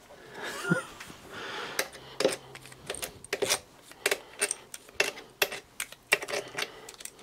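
Metal engine parts and tools clinking and tapping as a Simson S51 engine is taken apart by hand: a string of sharp, irregular metallic clicks.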